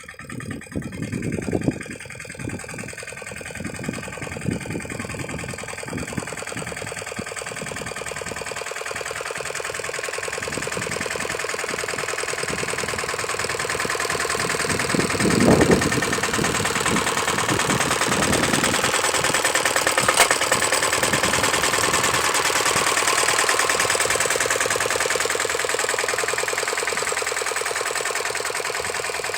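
Lombardini diesel engine of a two-wheel tractor (motoculteur) running, with sharp firing knocks at first and growing louder over the first ten seconds or so, then running steadily, with a brief louder swell about halfway through.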